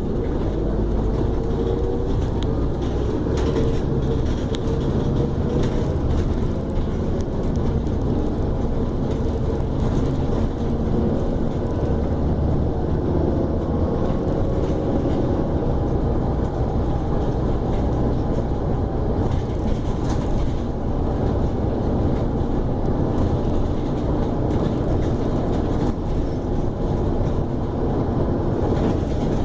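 Scania E400 double-decker bus on the move: a steady low engine and drivetrain rumble with road noise, and a whine that slides down and up in pitch as the bus changes speed.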